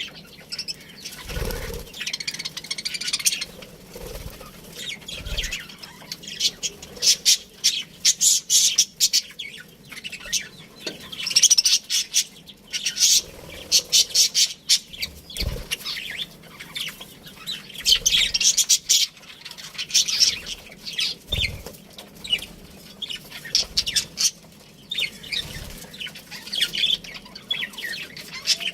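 A flock of budgerigars chirping and chattering continuously in rapid high notes, with a few short low thumps scattered through.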